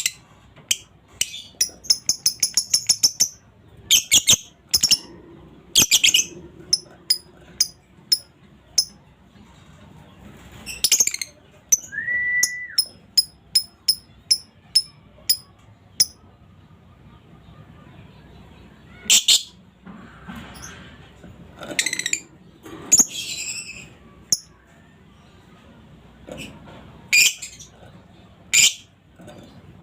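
Female lovebird calling: sharp, high chirps and a rapid chattering run, broken by pauses and a few louder shrill calls later on.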